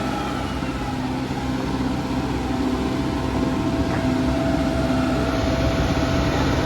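Kubota 5501 tractor's diesel engine running steadily, growing a little louder partway through.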